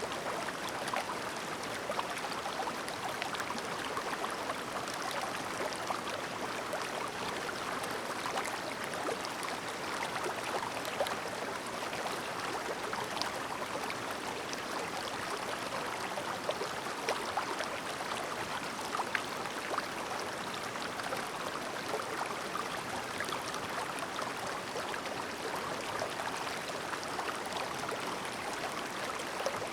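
Shallow, clear mountain stream babbling over stones: a steady burble of running water with many small splashes and trickles through it.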